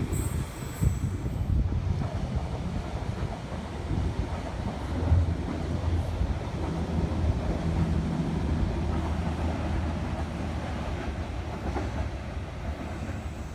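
Sydney Trains Tangara electric train running through the station without stopping: a steady low rumble of wheels and motors, with wind buffeting the microphone.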